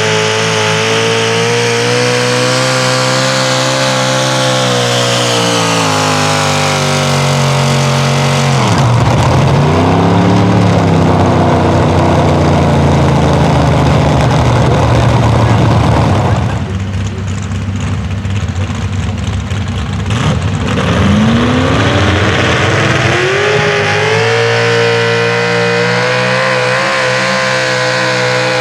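Pro Stock four-wheel-drive pulling truck's engine running at high revs under load. The revs drop sharply and recover about nine seconds in. The engine then eases off and goes quieter for a few seconds past the middle, before revving back up to a steady high pitch.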